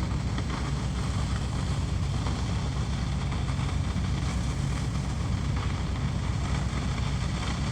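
Heavy diesel engines of the fire apparatus running steadily at the fire scene, a low drone with a constant hiss over it. No falling bricks stand out.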